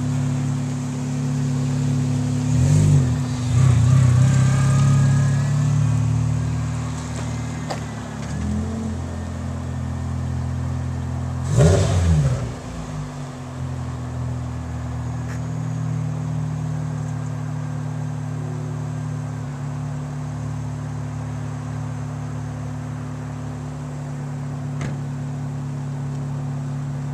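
Hyundai Tiburon four-cylinder engine idling steadily through new headers with no catalytic converters, blipped a few times, with one sharp rev that rises and falls back about 12 seconds in. The exhaust has a leak, which the owner notes.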